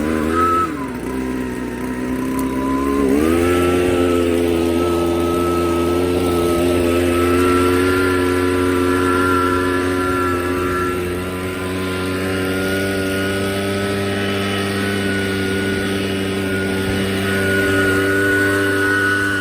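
Blower running with a machine drone; its pitch dips about half a second in, comes back up about three seconds in, then holds steady. It is blowing air into a dying bonfire to revive the flames.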